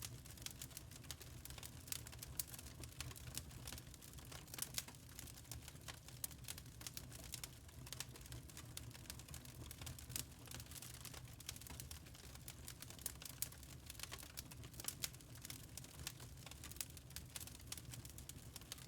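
Wood fire crackling in a fireplace: a dense, irregular run of small pops and snaps over a steady low hum of burning.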